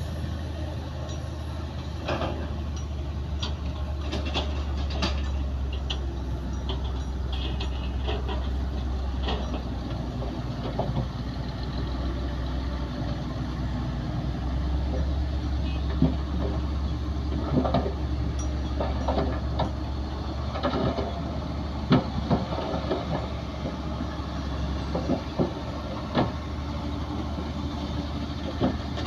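Heavy diesel earthmoving machinery running steadily with a deep low hum, with scattered sharp metallic clanks and knocks, the loudest in the second half.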